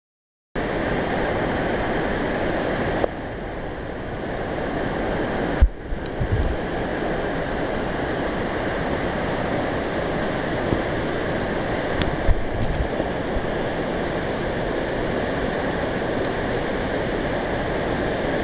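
Waterfall: a steady, loud rush of falling water, with a few low thumps on the microphone about six seconds in and again near the middle.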